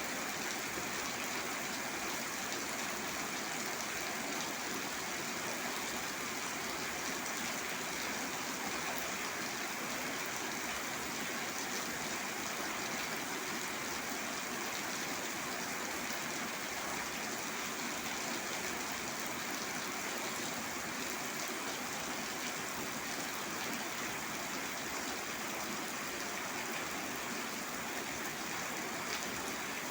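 Steady rain falling, an even, unbroken hiss with no separate drops or claps standing out.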